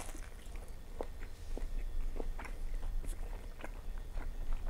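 A person chewing a bite of breaded fried food close to a clip-on microphone: irregular small crunches and mouth clicks.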